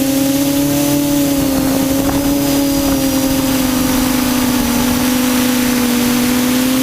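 Quadcopter electric motors and propellers humming steadily, heard from the onboard camera, the pitch wavering slightly as the throttle shifts, with air noise underneath.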